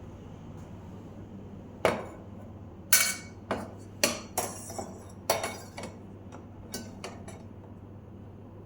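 A series of about ten sharp knocks and clinks, some with a short ring, as hard objects are handled and set down.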